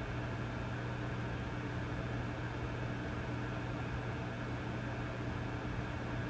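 Vintage tube amplifier idling with no signal, giving a steady low hum under an even hiss of static.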